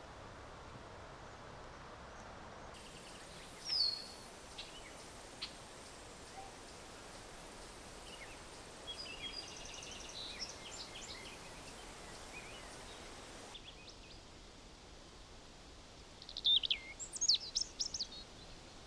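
Wild birds calling over a faint steady outdoor hiss: one sharp call about four seconds in, scattered chirps in the middle, and the loudest quick run of chirps near the end.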